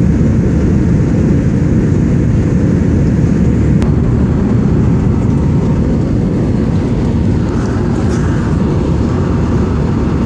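Airliner cabin noise during the climb after takeoff: a loud, steady, low rumble of the jet engines and airflow heard from inside the cabin.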